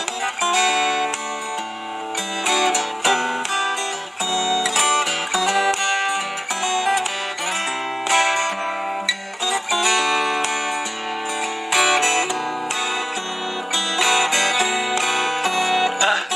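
Solo acoustic guitar played fingerstyle: a plucked melody over a moving bass line, both picked on one guitar.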